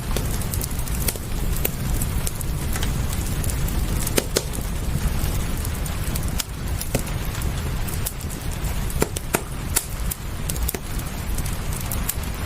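Fireplace crackling, with sharp irregular pops over a steady low rumble and an even hiss of rain.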